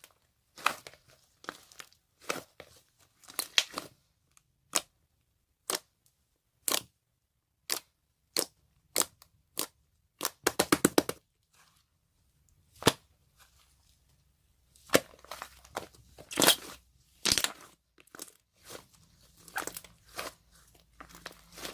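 A series of sharp clicks and crackles with pauses between them, now single, now in quick runs of several.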